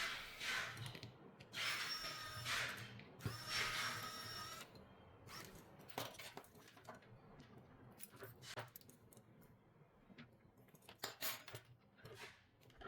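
Small repair tools worked on a smartphone: two stretches of scraping about a second each with a faint whine in them, then scattered clicks and taps.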